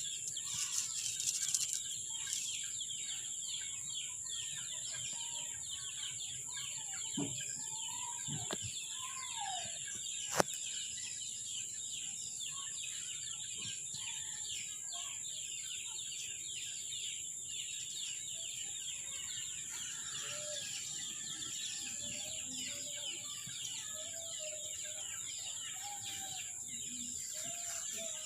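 Outdoor bird calls: short, scattered calls, more frequent in the second half, over a steady high-pitched drone and fine chirring. One sharp click about ten seconds in.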